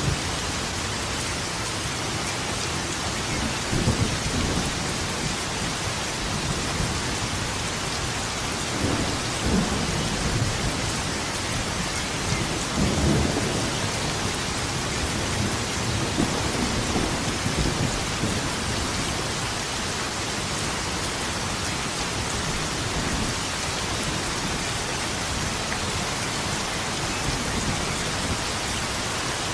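Steady heavy rain with thunder rumbling in low swells, the loudest about 13 seconds in, fading over the second half.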